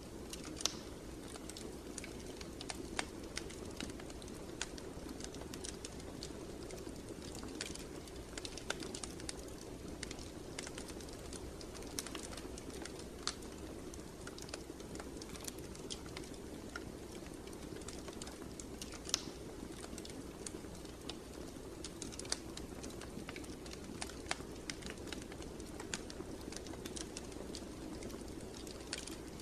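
Wood fire in a fireplace crackling: irregular sharp snaps and pops over a steady low rustle of burning flames.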